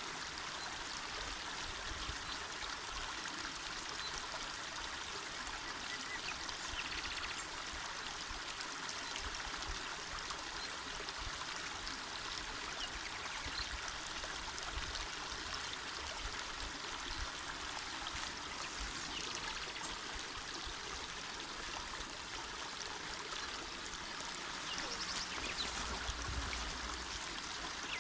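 Small mountain river flowing: a steady, even rush of water.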